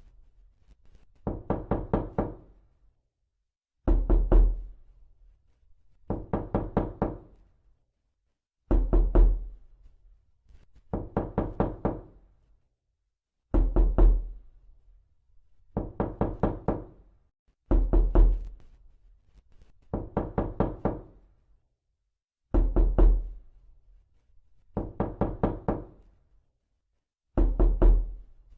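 Knocking in repeated bursts of about four to six quick knocks, a new burst every two to three seconds with silence between. Short, loud bursts alternate with longer, softer ones.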